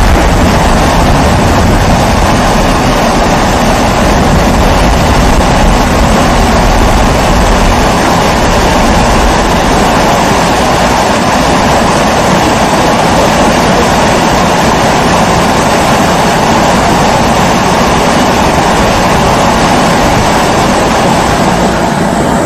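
Kerosene pressure stove (primus-type babour) burning with a steady hum, and a low rumble underneath that fades out about eight seconds in.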